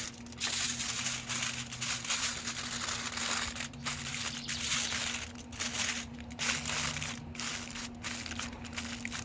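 Aluminium tin foil being folded and crumpled by hand around a chicken breast, crinkling and crackling with short pauses between folds.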